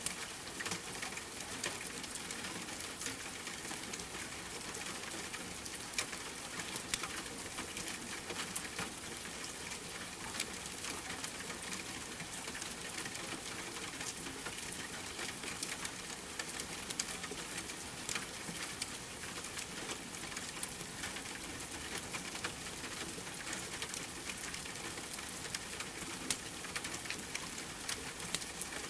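Steady rain hiss mixed with a crackling wood fire, with frequent short sharp crackles and pops scattered through it.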